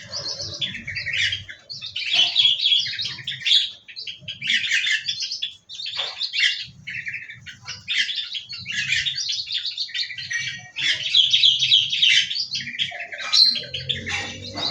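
A flock of small aviary birds chirping and twittering, many rapid calls overlapping almost without a break.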